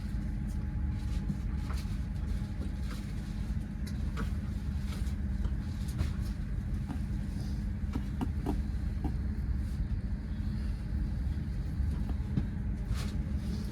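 A stationary train's steady low idling hum, with scattered light clicks.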